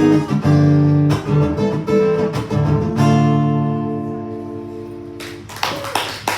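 Acoustic guitar strumming the closing chords of a song, the final chord ringing out and fading away, then an audience starts clapping about five seconds in.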